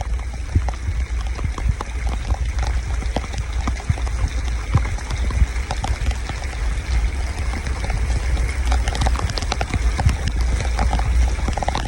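Heavy rain falling and splashing into standing water, with many small sharp drop hits close by over a steady low rumble.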